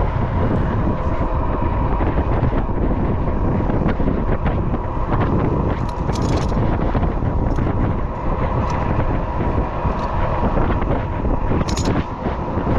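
Wind rushing over the microphone of a moving e-bike, a steady rumble with a faint constant whine. A brief high hiss about six seconds in and again near the end.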